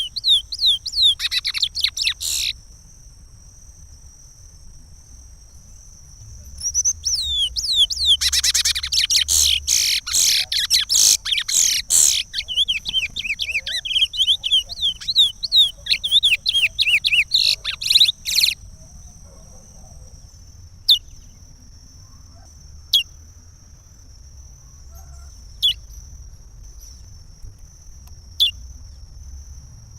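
Chestnut-bellied seed finch (curió) singing its Pará regional song: a short run of fast warbled notes that ends a couple of seconds in, a pause, then a long phrase of about twelve seconds. After that come single sharp notes every two or three seconds.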